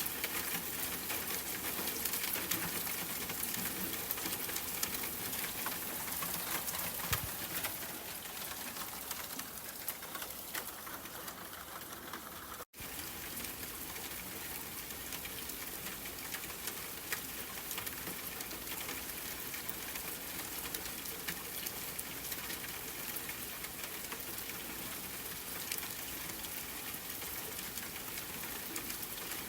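Steady rain: an even hiss of falling rain flecked with many small drop ticks. About halfway through, the sound cuts out completely for an instant, then goes on as before.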